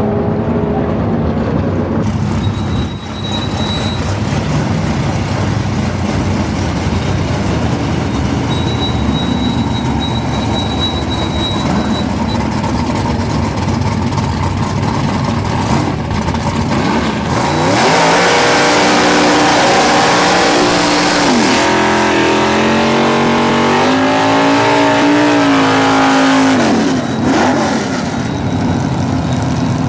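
Holden VL Calais drag car's V8 engine running steadily, then about two-thirds through revving up loudly for around nine seconds, its pitch climbing, dipping once and climbing again before it drops away suddenly.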